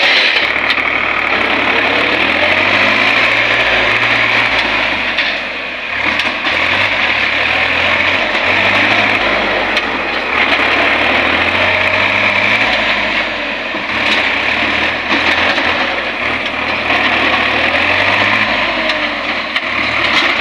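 Solis tractor's diesel engine running steadily, its loudness dipping briefly twice.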